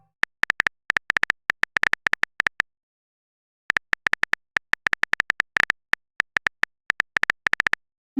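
Phone keyboard typing sound effect: rapid, uneven little clicks in two runs with a pause of about a second between them.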